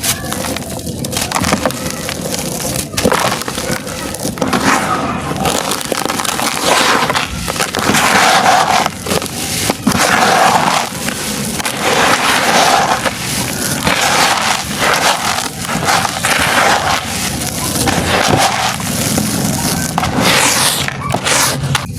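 Crunchy dried sand-cement shapes being crushed and crumbled, a continuous gritty crunching that swells again and again about once a second.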